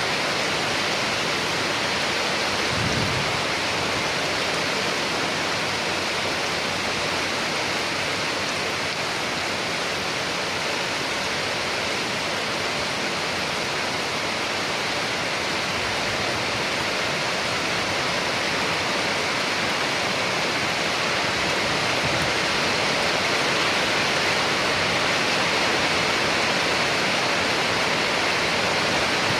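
Steady heavy rain, a dense even hiss, with a brief low thud about three seconds in.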